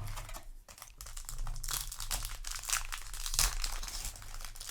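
Foil trading-card booster pack wrapper crinkling as it is handled, a dense run of irregular crackles that builds up about a second and a half in.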